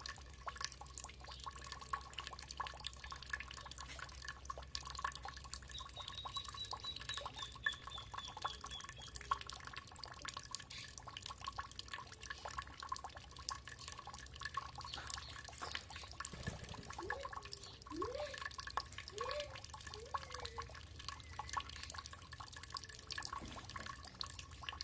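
Water dripping steadily, with many quick irregular drops; a few drops about two-thirds of the way through give short rising plinks. A bird gives one brief descending trill about a quarter of the way in.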